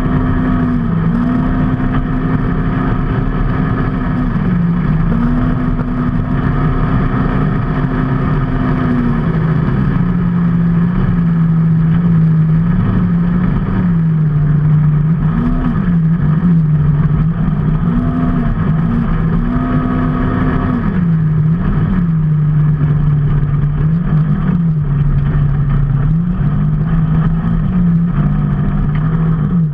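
Road vehicle engine under way, its note climbing and then dropping back again and again as it speeds up and changes gear, over a steady rush of wind and road noise.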